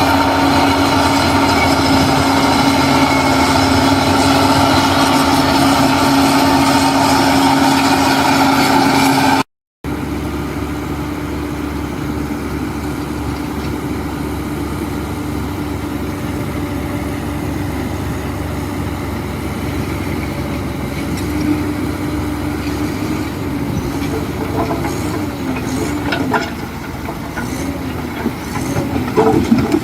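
Diesel engine of heavy earthmoving machinery running steadily, with a steady high tone over it. After a sudden cut about a third of the way in, a quieter engine runs on, with a few metallic clanks and squeaks near the end.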